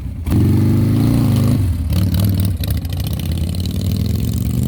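Harley-Davidson V-twin motorcycle engine revved near the start for about a second and a half, then dropping back to run at idle.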